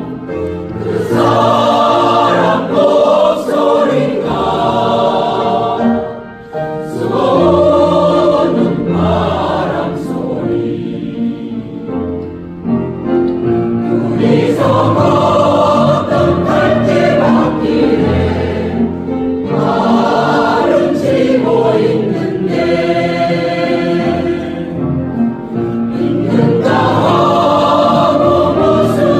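Choir singing a song in long held phrases, with short breaks between phrases.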